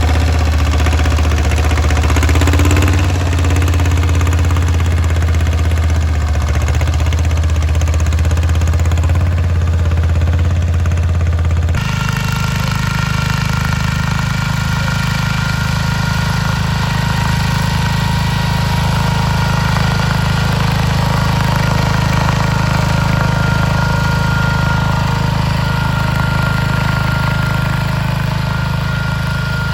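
Garden tractor engine running steadily, working a plow through hard ground. The engine sound changes abruptly about twelve seconds in to a different, steadier pattern, as from another tractor or another shot.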